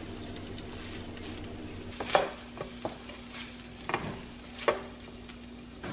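Food sizzling as it fries in a hot pan, over a steady low hum. A utensil scrapes and knocks against the pan a handful of times, most sharply about two seconds in.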